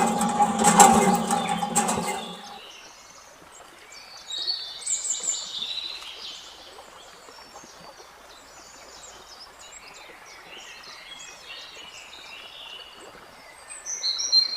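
Birds chirping in short, high calls over a faint steady background hiss. For the first two seconds or so a louder sound with a steady hum and clicks covers them, then cuts off.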